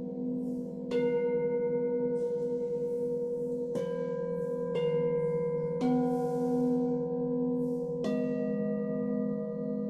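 Singing bowls struck one after another, five strikes in all, each tone ringing on and overlapping the others with a slow wavering beat.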